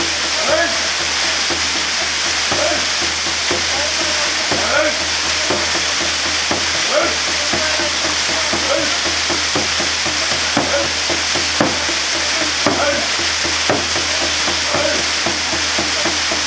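Waterfall water falling steadily in an even rush, with short faint rising tones about once a second over it.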